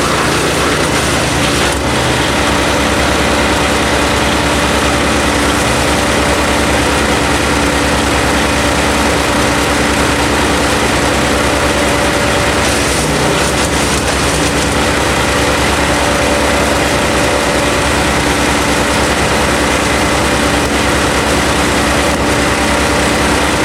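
KNDMAX GC156 disc wood chipper running steadily at a constant speed, its engine tone and the whir of the machine loud and unbroken, with brief changes in the sound a few times.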